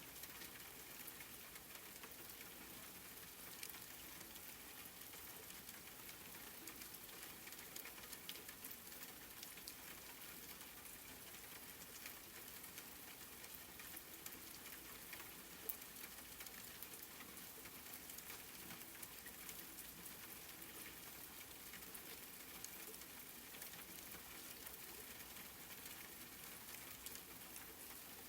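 Steady, faint rain: an even hiss strongest in the high range, dotted with many small drop ticks.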